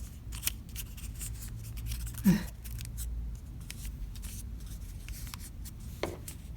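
A sheet of origami paper crinkling and rustling in irregular little crackles as it is folded and creased by hand. A short voice sound comes about two seconds in.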